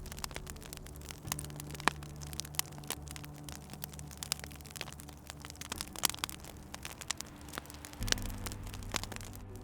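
Wood fire crackling, with irregular sharp pops over a soft hiss; the loudest pops come about two seconds in and about six seconds in. Low steady tones sit underneath and shift pitch a little after a second and again near the end.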